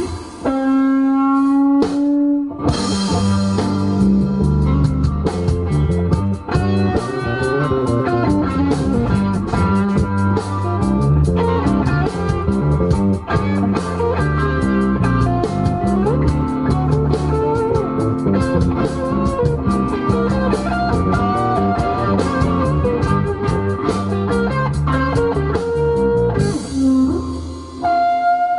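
Live band playing an instrumental break: an electric guitar lead over bass and drums. It opens with a single held guitar note, slightly bent upward, before the full band comes in about two and a half seconds in.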